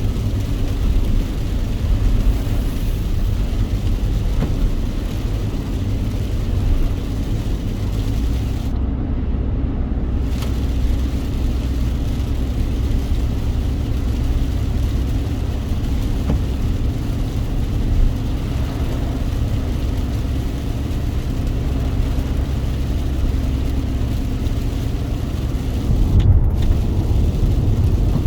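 Steady rumble of a car driving in the rain, road and engine noise with an even hiss on top. The hiss drops out for about a second around nine seconds in.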